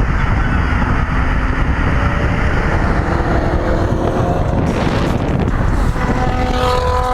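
Car engines and road noise with wind buffeting the microphone, a loud, steady rumble.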